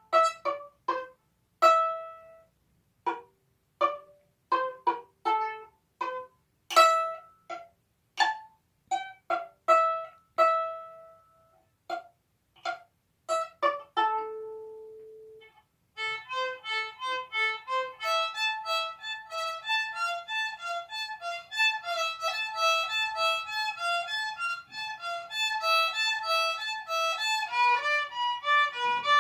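Solo violin playing a simple melody. For the first half the strings are plucked pizzicato, each note short and dying away. About halfway through the player switches to bowing, and the notes run on smoothly, one into the next.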